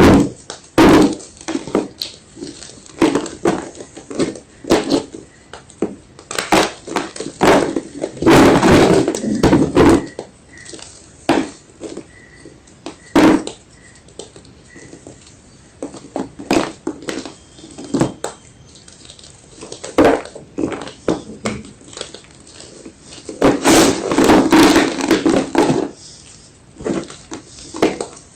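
White gym chalk crunching and crumbling: irregular sharp cracks, with longer bouts of dense crumbling about eight seconds in and again near the end.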